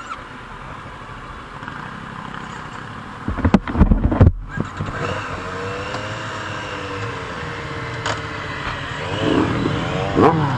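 Motorcycle engine running low, then a cluster of loud knocks and rumble about three seconds in. After that the engine revs up and down as the bike pulls away, rising again near the end.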